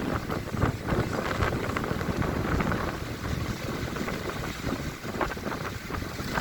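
Wind buffeting the microphone: an uneven low rumble with irregular rough gusts.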